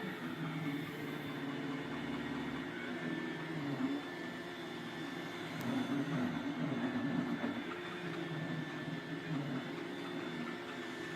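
Roomba robot vacuum running: a steady motor and brush hum that shifts slightly in pitch as it moves.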